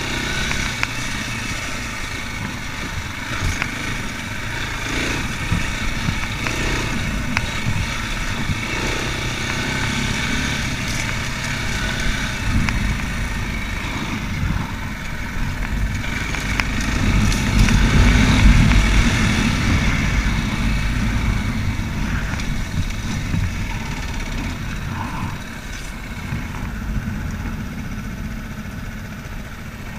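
Racer Panther 300 enduro motorcycle engine running under way, with a low rumble beneath; the engine swells louder about halfway through, then eases back.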